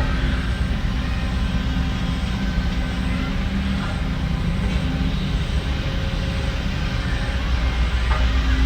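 Diesel engine of heavy earthmoving machinery running steadily: a low rumble with a held engine tone.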